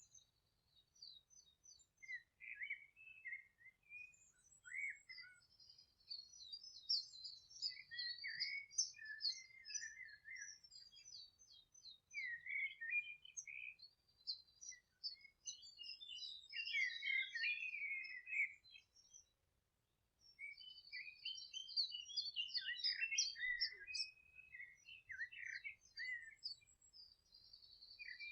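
Several small songbirds singing and chirping together, in quick overlapping twitters and trills, with a brief lull a little over two-thirds of the way through.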